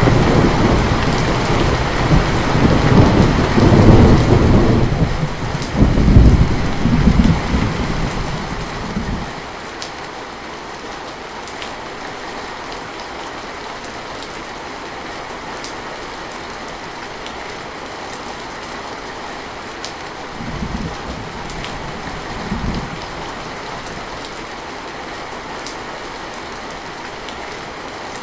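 Heavy rain falling steadily. A long, loud roll of thunder rumbles through the first nine seconds or so and dies away, and two short, fainter rumbles come later.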